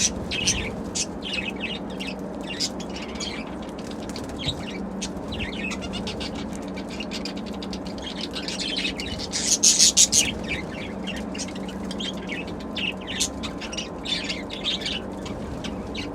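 Pet budgerigars chattering with rapid high chirps and warbles, with a louder flurry of chirping about two-thirds of the way through, over a steady low hum.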